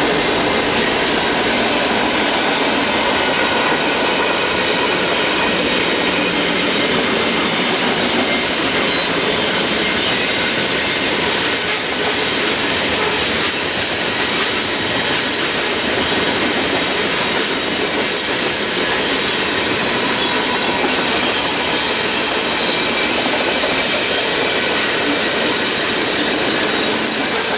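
Long freight train rolling past at a steady speed: continuous rumble of steel wheels on the rails with clickety-clack over the rail joints and some thin wheel squeal.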